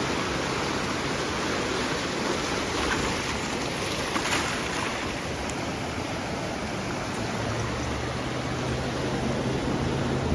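Sea waves washing onto a beach: a steady rush of surf. About seven seconds in, a low, steady engine hum joins it.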